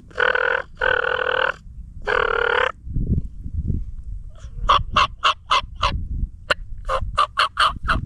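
Large birds calling: three long calls, then after a short pause a quick run of short calls, about four or five a second, over a low rumble.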